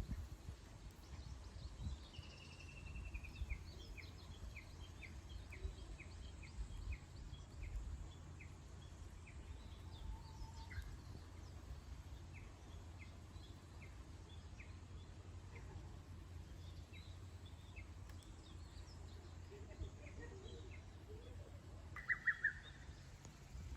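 Wild birds singing outdoors. A run of short, high, evenly repeated notes comes about twice a second for much of the time, with a louder call near the end, over a steady low background rumble.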